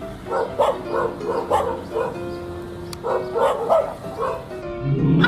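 A dog barking repeatedly in quick runs of short barks, alarm barking at a stuffed toy tiger.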